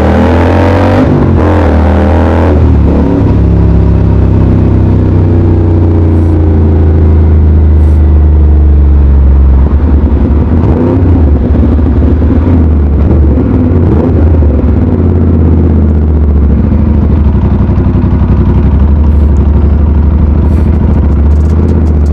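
Aprilia RS 457 parallel-twin with an Ixil aftermarket exhaust running under way, its note rising and falling as it accelerates and eases off, over a steady low drone.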